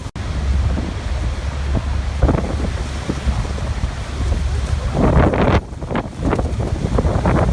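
Waterfall rushing steadily, with wind buffeting the microphone as an uneven low rumble. The sound cuts out for an instant just after the start.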